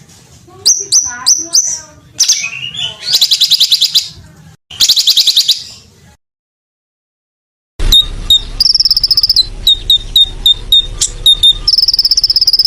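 Songbird calls: sharp whistled notes and rapid buzzy trills. They cut off to dead silence about six seconds in. Another recording starts a moment later, with a low hum under it, quick high ticks and a long rapid high trill that sounds insect-like.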